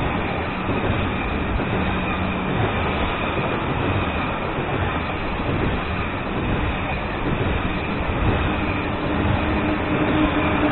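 A Eurostar Class 373 high-speed train passing through the station. Its coaches run by with a steady rush of wheel and rail noise and a faint high whine.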